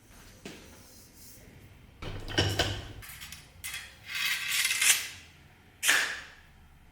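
Hard objects handled on a workbench, with metallic clinks: a light knock, then a clatter of several hits, a longer scraping slide, and a single sharp clack near the end.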